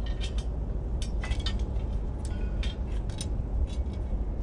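Bricks and brick pieces being set dry, clinking and knocking against each other several times at irregular intervals, over a steady low rumble.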